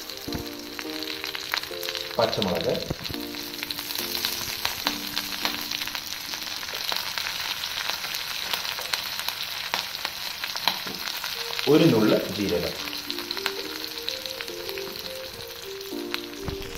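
Tempering sizzling in hot sesame oil in a pan: curry leaves, sliced green chillies, urad and chana dal and dried red chillies frying with a steady crackling hiss. Two louder swells come about two seconds in and again around twelve seconds.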